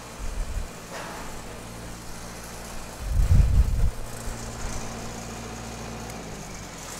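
An engine idling steadily with a low hum that stops about six seconds in, broken by two heavy low rumbles, the louder one about three seconds in.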